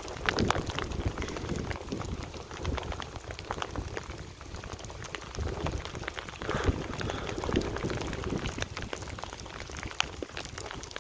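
Heavy thunderstorm rain falling hard, with many scattered sharp taps and a low rumble underneath.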